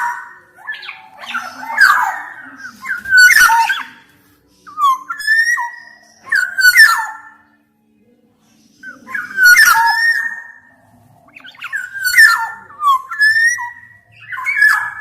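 Black-naped oriole (kepodang) singing: short phrases of slurred, fluty whistles mixed with harsher notes, repeated every second or two, with a brief pause midway.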